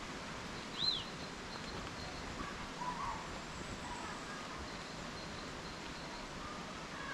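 Small birds chirping here and there over a steady background hiss; a single high, arched chirp about a second in is the loudest call.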